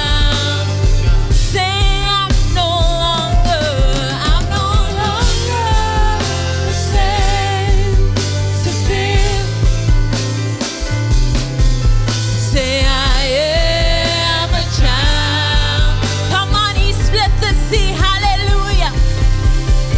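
Live worship music: a band with bass and a steady beat under a lead singer holding long, wavering notes.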